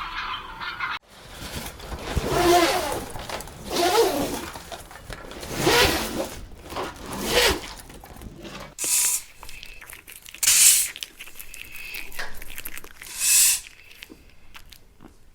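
An animal calling four times, about a second and a half apart, each call bending in pitch. After that come a few short, high, noisy bursts.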